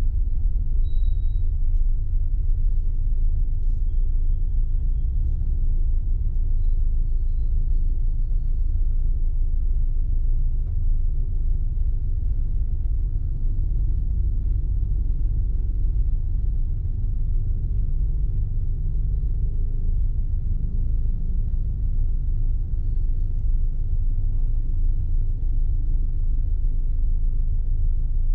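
Steady low rumble of a car being driven: engine and road noise with a faint hiss above it, unchanging throughout. A few faint high squeaks come in the first several seconds.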